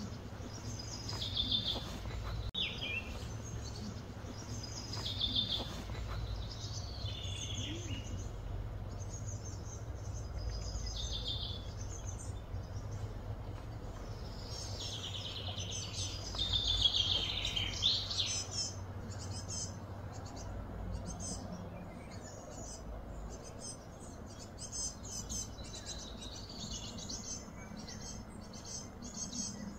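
Birds calling again and again in short high chirps and falling phrases, thickest about halfway through, over a steady low background hum.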